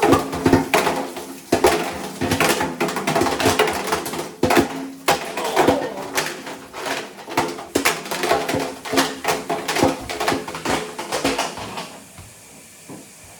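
Calculators tumbling in the drum of an LG WM6700HBA front-load washer, clattering irregularly against the drum as it turns. The clatter stops about twelve seconds in as the drum pauses.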